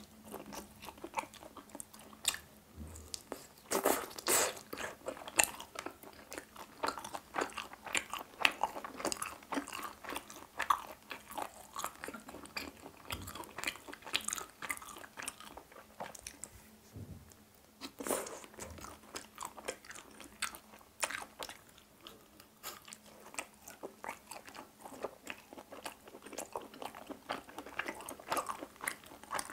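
A person chewing and biting grilled chicken hearts in teriyaki sauce and mayonnaise: a steady run of small clicks, busier about four seconds in and again around eighteen seconds.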